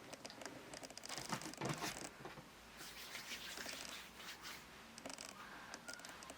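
Faint, irregular rustling and scratching with small clicks, as of small items being handled and moved about.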